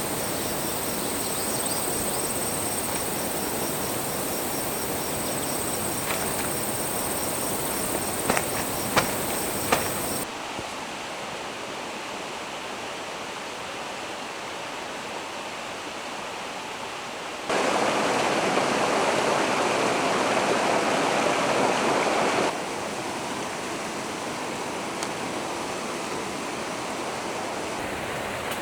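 Steady rushing noise, like running water or a burner, that changes abruptly several times: quieter about ten seconds in, loudest for about five seconds just past the middle. A few sharp crackles come about eight to ten seconds in, and a faint thin high whine runs through the first ten seconds.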